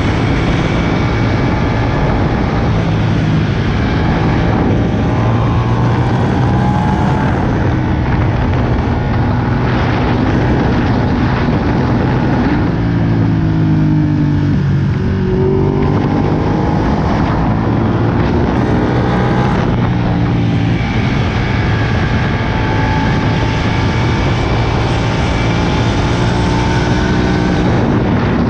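Ducati Panigale 959's L-twin engine heard from the rider's position while riding, revving up through the gears with repeated rising pitch and shifts. About halfway through, the revs fall as it slows, then climb again as it accelerates. Wind rush runs underneath.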